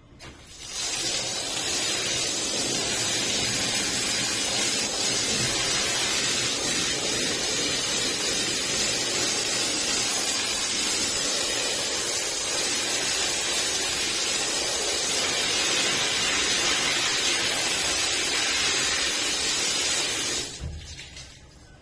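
Steady hissing spray, starting about a second in and cutting off shortly before the end.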